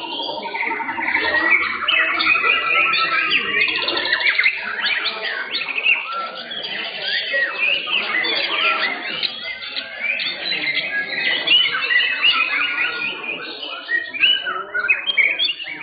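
Many white-rumped shamas (murai batu) singing at once in a dense, overlapping chorus of whistles, chirps and rapid trills.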